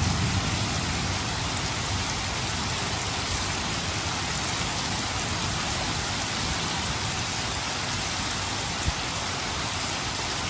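Steady rain falling, a continuous even hiss of drops on surfaces, with a low rumble dying away at the very start.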